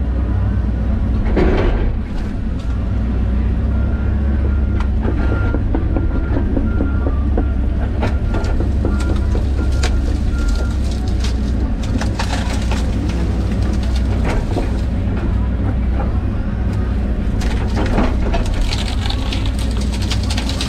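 John Deere 130G excavator's diesel engine running steadily under working load, with scattered sharp cracks and knocks as trees, roots and brush are grubbed out and broken.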